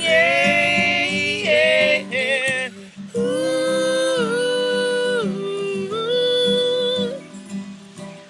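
Singing with acoustic guitar accompaniment: a voice holds long wordless notes, some bending and wavering in pitch, with a short break about three seconds in.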